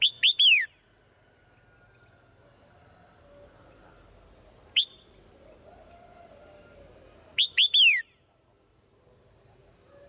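Swallow calling in loud, sharp whistled notes, each rising and then sliding down in pitch. A quick group of three comes at the start, a single note about five seconds in, and another group of three near eight seconds, over a faint steady high-pitched hiss.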